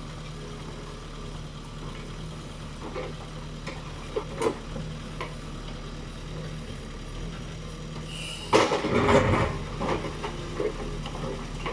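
JCB tractor's diesel engine idling steadily, with a few light knocks. About eight and a half seconds in, a loud clatter lasts a second or two.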